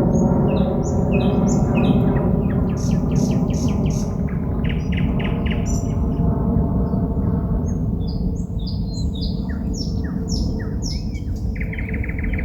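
A songbird singing at night: varied phrases of rapidly repeated notes and rattling trills, one after another, over a steady low hum.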